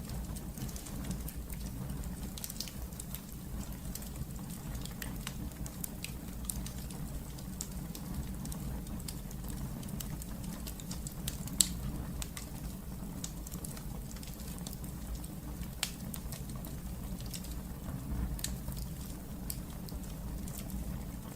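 Wood fire crackling in a fireplace: a steady low rumble with many small irregular pops and snaps, one louder pop about halfway through.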